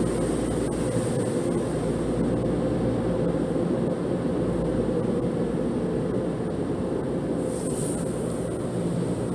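Automatic car wash machinery heard from inside the car: a steady, dense rumble of water and equipment on the body, with a brief rise in hiss near the end.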